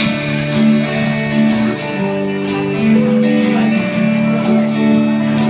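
Live rock band playing an instrumental passage between sung lines, led by guitars with chords that change every second or so.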